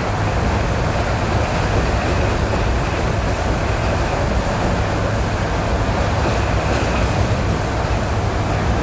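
ED9E electric train running between stations on jointed track, heard from inside the car: a steady, loud rumble of wheels and running gear.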